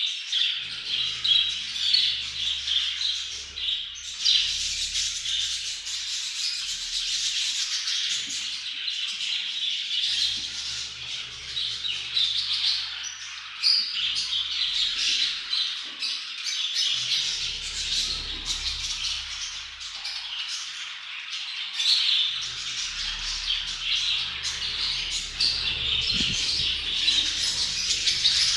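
Budgerigars chattering and warbling continuously, with frequent squawks: budgie mating-season chatter.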